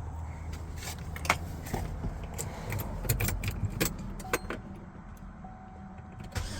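Car keys jangling, with a string of sharp clicks as the ignition key is handled and put into the ignition, over a low steady hum.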